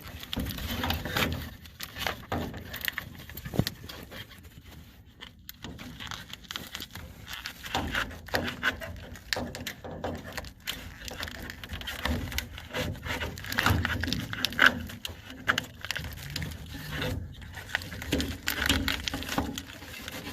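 Furnace air filter being worked out of its slot: irregular scraping and rubbing with light knocks and clatters.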